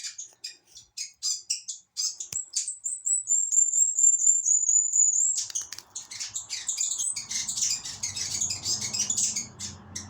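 Fantail chirping in high, squeaky notes. A little under three seconds in it sings a quick run of evenly spaced notes that step slightly down in pitch for about two and a half seconds, then rapid chirping resumes. A low steady hum comes in at about seven seconds.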